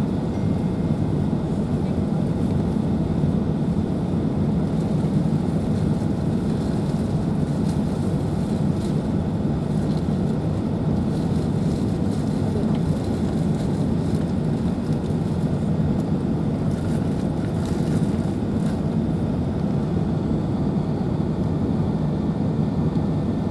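Steady low rumble of Airbus A380 cabin noise: engine and airflow noise heard from inside the passenger cabin, even throughout with no sudden bumps or surges.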